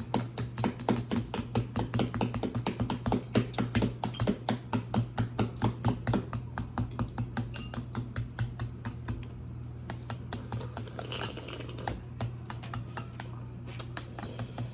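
Duck balut eggs being cracked open at the bottom by quick repeated taps on the shell. The rapid tapping thins out after about eight seconds.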